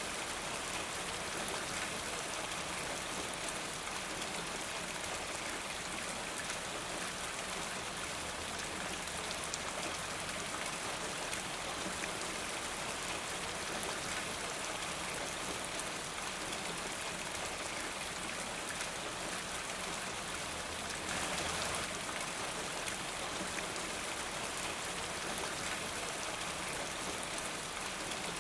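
Steady rain falling: an even hiss of drops with fine scattered patter, swelling slightly louder for a moment about three quarters of the way through.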